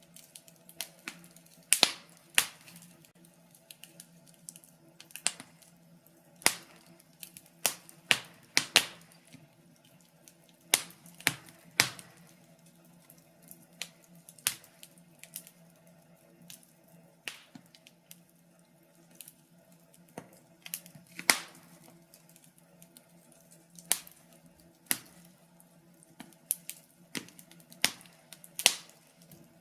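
Fire crackling, with irregular sharp pops and snaps coming in loose clusters, some much louder than others, over a faint steady low hum.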